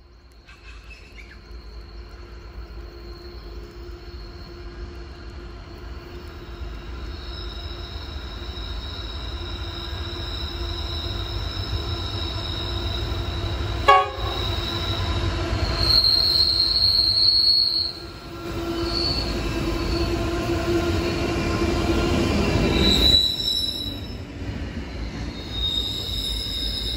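Diesel-hauled intermodal freight train approaching and passing, the locomotive rumble building steadily louder, with a single sharp knock about halfway through. High, steady wheel squeal comes from the wagons on the curve, loudest about two-thirds of the way in, and the rumble eases as the locomotives pass and the container wagons roll by near the end.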